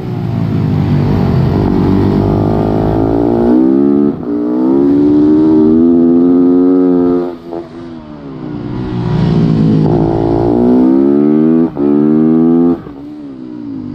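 Supermoto motorcycle engine heard from on board, revving hard with its pitch climbing through the gears and dropping sharply when the throttle is shut, several times. Near the end it settles to a lower, quieter run.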